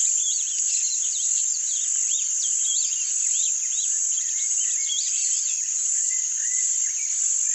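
Rusty-collared seedeater (coleiro-do-brejo) singing the 'grego' song: a fast run of quick rising-and-falling whistled notes, with a few longer flat notes in the second half. A steady high hiss runs underneath and is the loudest part.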